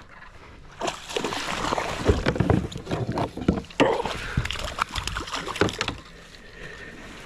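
Water sloshing and splashing beside a kayak, with irregular knocks and clatter against the hull, as a hooked bass is fought and brought in. The activity starts about a second in and eases off near the end.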